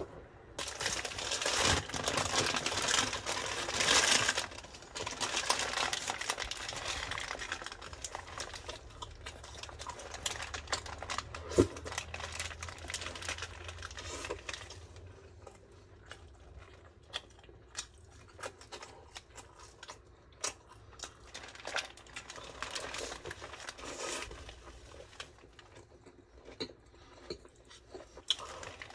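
A paper burger wrapper crinkling loudly for several seconds as a Burger King burger is unwrapped. This is followed by close-miked biting and chewing of the burger, with many short mouth clicks.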